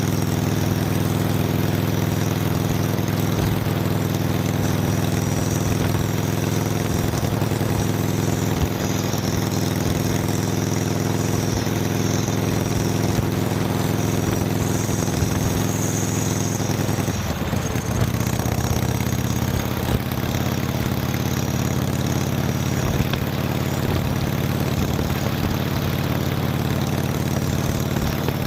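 Motorcycle engine running steadily while riding. Its note shifts briefly a little past halfway, as with a gear change or a change of throttle.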